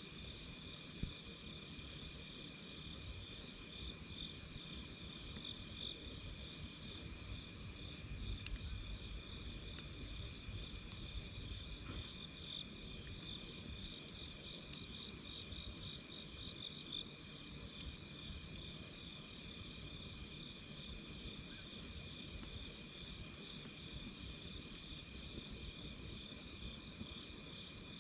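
Insects chirring steadily in two high, pulsing trills, over a low rumble with a couple of faint sharp pops.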